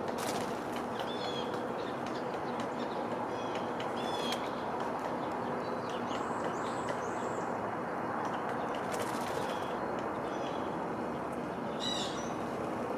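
Songbirds chirping and calling in short separate phrases, a few high notes at a time, over a steady background hiss and rumble.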